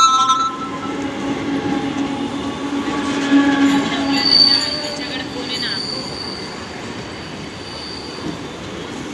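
Mumbai suburban local train running on the tracks, with a steady low hum and a thin, high-pitched wheel squeal from about four seconds in that lasts several seconds. A brief loud tone sounds right at the start.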